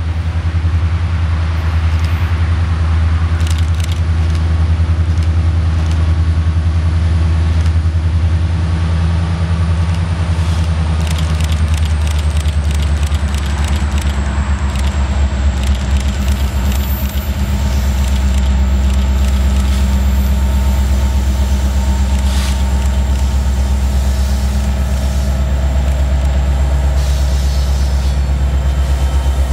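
Diesel locomotives of a Canadian National ore train, led by SD70M-2 units, running under power with a deep steady engine drone and a faint high whine. The engine tone steps lower about 17 seconds in.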